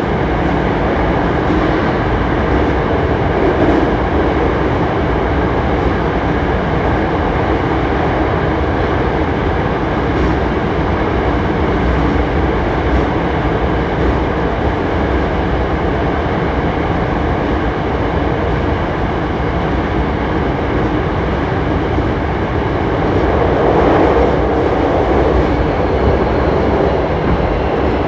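Hankyu 7300 series train running at steady speed, heard from inside the motor car: continuous rumble of wheels on rail with the car's running gear, a car noted for its unusual running noise. It grows slightly louder about 24 seconds in.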